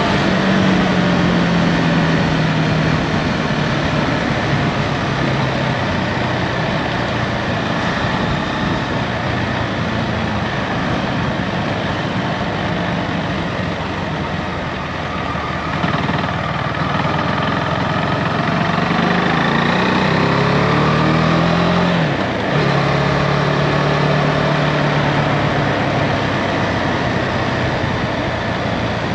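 Husqvarna Svartpilen 401's single-cylinder engine running on the move, with wind noise. The engine note sinks in the first few seconds as the bike slows, climbs under acceleration, drops suddenly about three-quarters of the way through at an upshift, then holds steady.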